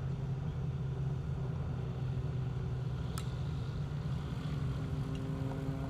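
Rotax engine of a Just Aircraft SuperSTOL running at low power during the landing rollout, a steady drone heard inside the cockpit, with one brief click about three seconds in.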